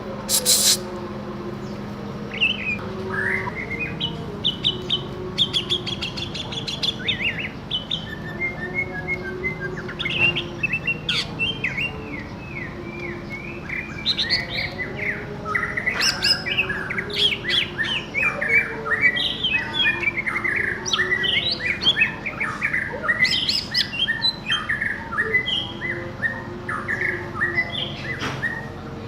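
Cucak ijo (green leafbird) singing a fast, varied run of chirps, whistles and trills, busier and louder from about halfway through. This is the bird answering a masteran training recording. A sharp click comes near the start, and a faint low hum runs underneath.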